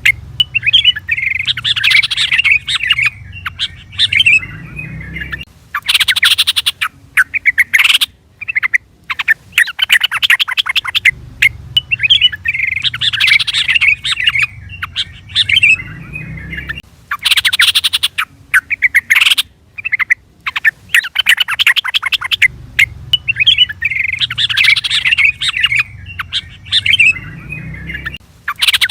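Yellow-vented bulbul calling: bursts of rapid, chattering chirps and short whistled phrases, in a sequence that repeats about every eleven seconds, as a looped recording does. A low rumble sits under part of each cycle.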